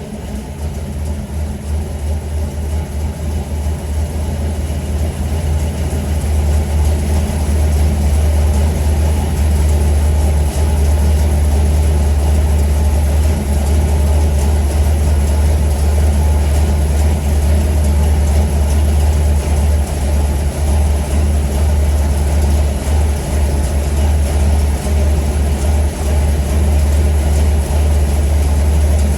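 Ford FE 390 big-block V8 in a 1965 Ford truck running steadily with a deep low rumble, growing louder over the first few seconds and then holding even.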